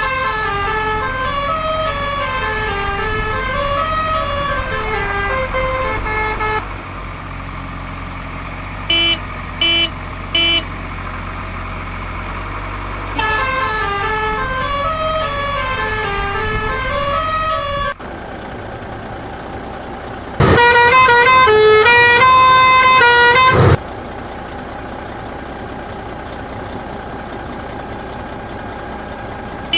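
Cartoon truck sound effects: a low engine rumble underneath and a repeating up-and-down electronic tune, twice. Three short horn beeps come in between, and a loud horn blast held about three seconds follows near the end.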